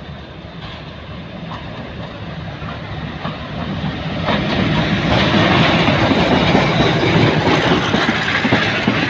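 Pakistan Railways HBU-20 diesel-electric locomotive approaching and passing close by, growing louder, followed by passenger coaches. From about four seconds in the wheels rumble and clack over the rails.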